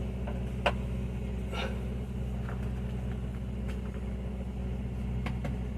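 Steady low mechanical hum, with a few sharp clicks and taps of parts being handled; the loudest click comes under a second in.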